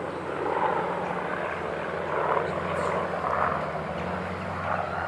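Piston-engined Second World War fighters, a Spitfire and a Hurricane, flying with a steady engine drone.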